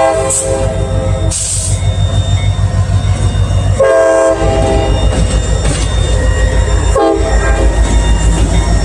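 Diesel locomotive air horn sounding for a crossing in three blasts: one dying away just after the start, a second about four seconds in and a short one near the end. Under the horn the CSX SD40-2 locomotive's diesel engine runs with a steady heavy low rumble as the train passes.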